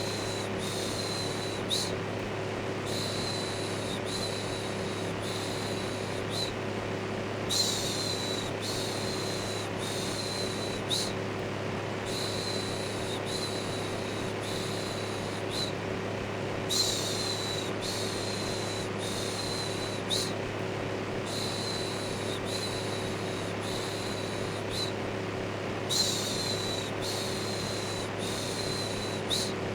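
Steady whir of an electric fan with a low motor hum, overlaid by repeated "shhh" shushing in hissy strokes of about a second each, pausing briefly every few seconds.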